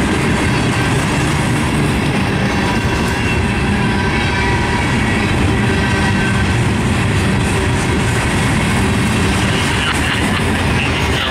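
Loaded Herzog ballast hopper cars rolling past on the rails: a steady, loud rumble and clatter of steel wheels over the track.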